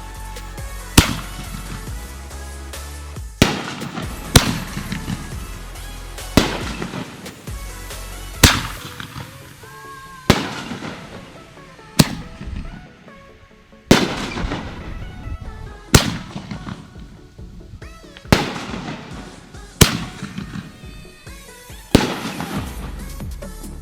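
Consumer aerial fireworks bursting in a steady sequence, about a dozen loud bangs roughly two seconds apart, each trailing off, over background music with a steady bass.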